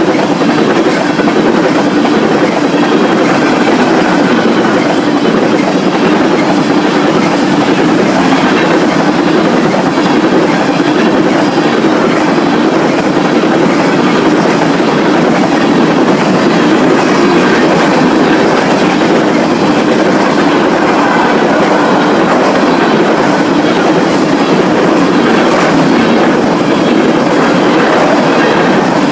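Freight train cars rolling steadily past, loud and continuous, their wheels clacking over the rail joints.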